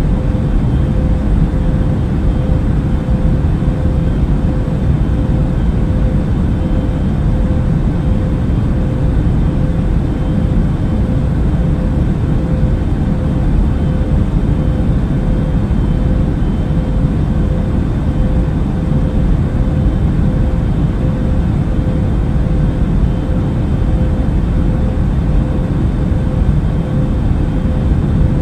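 Airplane cabin noise in flight: a steady low rumble with a constant hum tone running through it.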